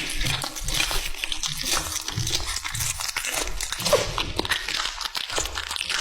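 A cat chewing food: a run of irregular wet crunches and smacks.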